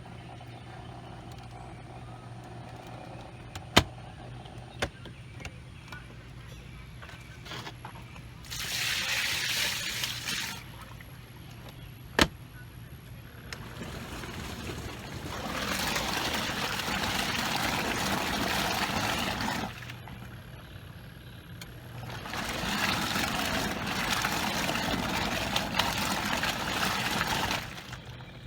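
Water pouring in three long spells of several seconds each, as a portable camp washer's tub is drained and refilled with fresh rinse water. A few sharp knocks come before the pouring, with a low steady hum under the first part.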